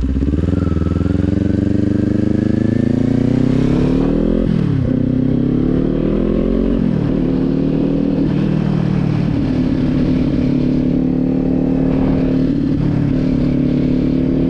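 Kawasaki motorcycle engine pulling up through the revs, shifting up about four and a half seconds in and again near seven seconds, then holding a steady cruise.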